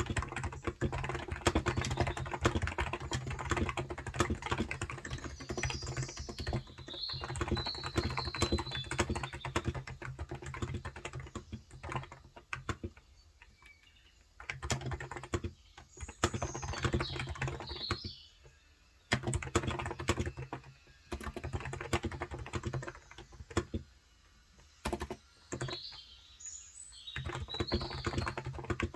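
Typing on a Cox Endeavor electrostatic capacitive (contactless) tenkeyless keyboard with 35 g switches: runs of quick keystrokes broken by a few short pauses. Birds chirp briefly in the background three times.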